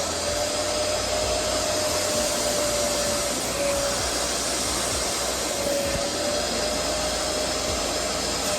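Hoover PowerDash Go portable spot cleaner running steadily, its suction motor giving a steady whine over a rushing of air.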